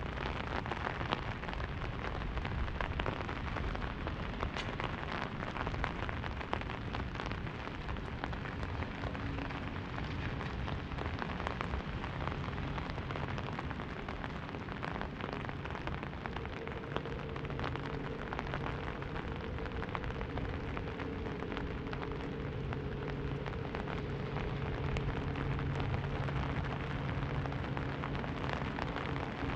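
Rain falling on an umbrella overhead: a dense, steady patter of drops. About halfway through, a faint low steady hum joins it.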